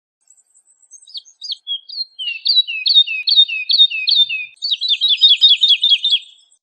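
Woodlark singing one song phrase: a few scattered high notes build into a run of repeated falling notes, which speeds up into a quicker series near the end.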